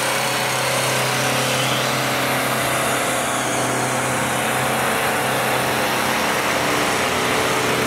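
Mahindra Arjun 605 tractors' diesel engines running hard and steady under load in a tractor tug-of-war pull, with no rise or fall in pitch.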